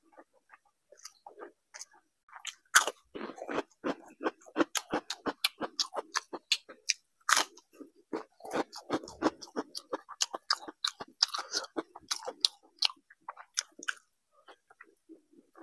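Close-miked mouth sounds of a man chewing a mouthful of rice and curry eaten by hand: quick wet clicks and smacks, densest from about three seconds in until near the end.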